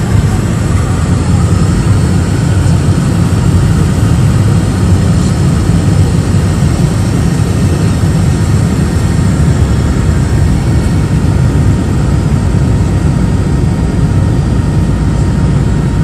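Steady, loud rumble of an airliner's cabin in flight: engine and air noise, heaviest in the low range and unchanging throughout.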